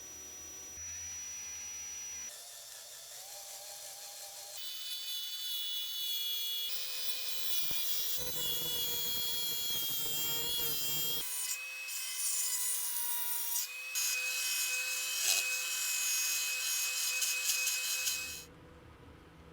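Hand and power tools scraping, rubbing and whining against metal revolver parts during rust removal and refinishing. The sound comes in short pieces that change abruptly every few seconds, growing louder about four seconds in and dropping away sharply near the end.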